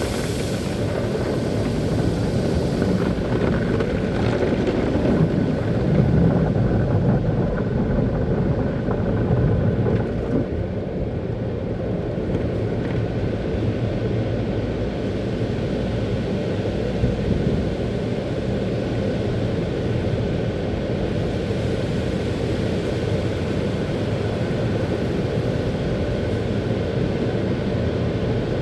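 Automatic car wash equipment running steadily around a car: a dense, even rushing noise, loudest in the low range, with a faint steady whine.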